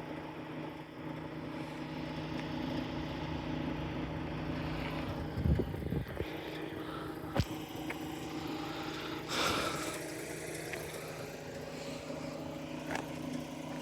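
An engine idling steadily, with a few brief knocks about five, seven and nine seconds in.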